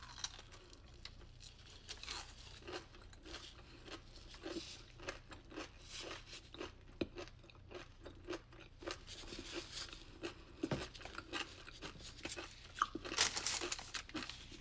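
Close-up chewing of a Dubai chewy cookie: faint, irregular crunching and crackling from the roasted kataifi and pistachio filling, growing louder near the end.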